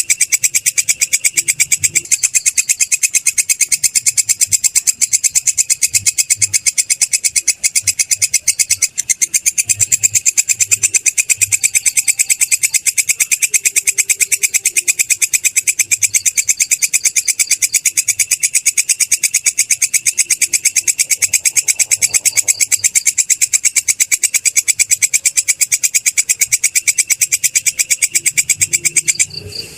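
Belalang kecek katydid calling: a loud, high-pitched trill of rapid, evenly spaced pulses that breaks off briefly just before the end.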